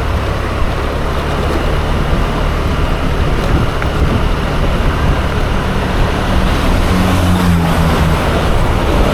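Ride-along sound of a Yamaha Aerox 155 scooter: its small single-cylinder engine running under way, with wind rushing over the microphone and road noise. The engine note swells briefly about seven seconds in.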